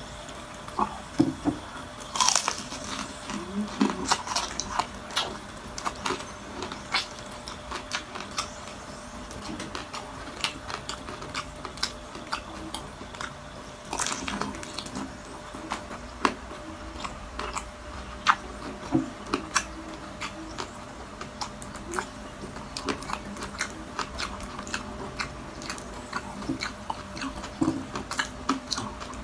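Close-up crunching and chewing of crispy deep-fried chicharon dipped in vinegar, a steady run of sharp crunches with the loudest bites about 2 and 14 seconds in.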